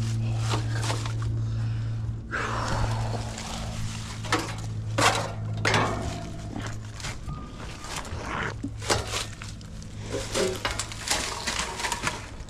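Short knocks, clicks and rattles of tools and parts being handled, with a rustle about two seconds in, over a steady low electrical hum.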